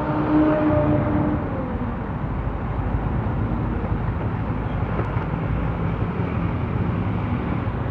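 Motorcycle riding in city traffic: the bike's engine running, with steady road and traffic noise, picked up by a phone's headset microphone. A humming tone stands out for about the first second and a half, then fades into the rumble.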